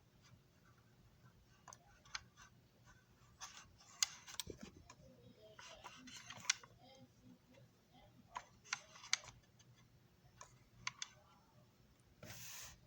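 Small objects being handled on a workbench: scattered light clicks and taps, a few sharper ones, and a short rustle near the end.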